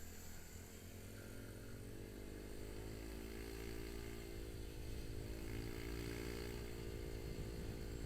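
Motorcycle engine running under way, its pitch rising from about two seconds in and easing off again near the end, over a steady low rumble.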